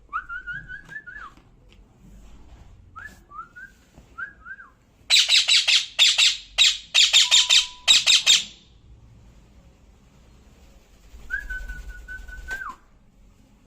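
Pet parrot whistling short wavering notes, then giving a loud run of rapid harsh squawks for about three seconds, and near the end one long level whistle that drops at its close.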